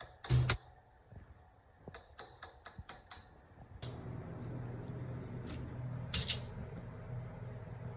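Sharp metallic clicks and rattles: a cluster right at the start, then a quick run of about six, then from about four seconds in a steady low hum of something running, with a few more clicks.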